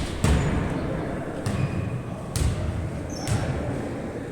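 A series of four sharp thuds, roughly one a second, over a steady hiss.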